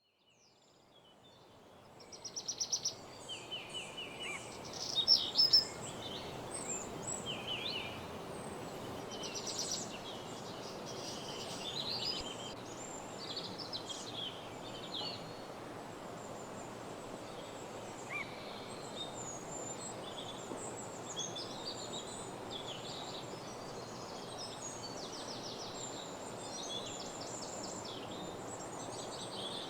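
Woodland dawn chorus: many songbirds chirping and trilling over a steady low background hiss. It fades in over the first couple of seconds, with louder rapid trills in the first few seconds.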